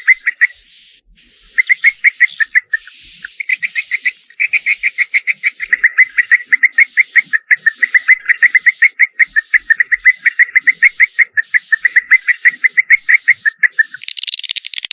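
Swiftlet calls: rapid trains of short twittering clicks mixed with higher chirps that repeat at an even pace, loud throughout, with the clicking trains stopping about a second before the end.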